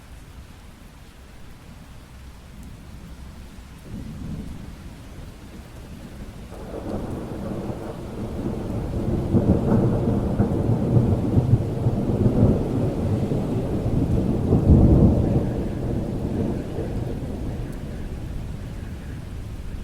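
Steady rain with a long roll of thunder. The thunder builds from about a third of the way in, is loudest about three quarters through, then rumbles away toward the end.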